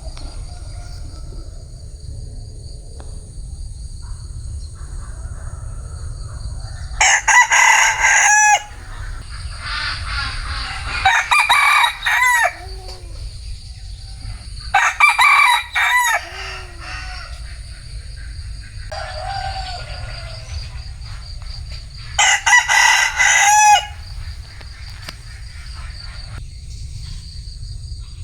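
Vietnamese bantam (gà tre) rooster crowing four times, each crow about a second and a half long, with fainter crows in between. A steady low rumble runs underneath.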